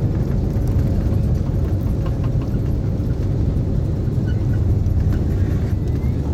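Steady low rumble inside the cabin of an Airbus A330-300 airliner rolling along the ground shortly after landing: engine and wheel noise, with a faint steady hum above it.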